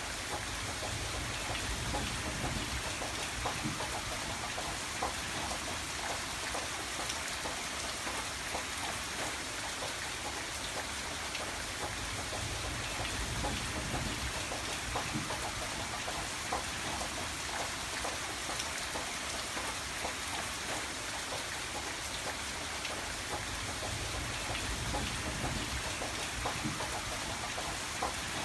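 Steady rainfall, with many individual drops ticking on a surface over an even hiss of rain and a soft low rumble that swells and fades.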